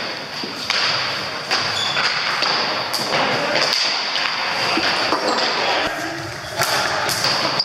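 Ball hockey in play in a large hall: repeated sharp knocks and thuds of sticks, ball and boards, with indistinct voices of players and onlookers. A steady high-pitched tone sounds underneath.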